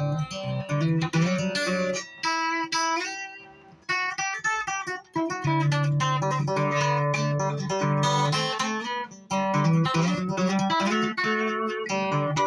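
Guitar played solo: plucked single notes and chords, with a short lull about four to five seconds in.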